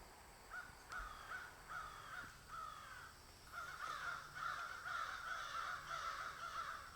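Birds calling: a run of short, evenly spaced calls from about half a second in, thickening into near-continuous calling from about halfway through.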